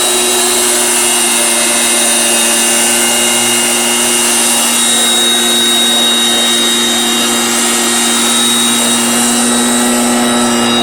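Small engine of a motorized orchard sprayer running steadily at one constant speed, with a loud, even hiss of spray.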